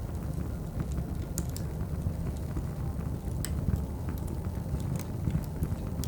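Wood fire crackling, with scattered sharp pops at irregular moments, layered over the steady low background noise of a cafe.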